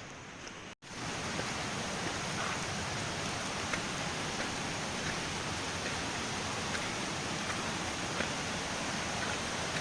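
Steady rush of flowing water, which comes in after a brief dropout just under a second in.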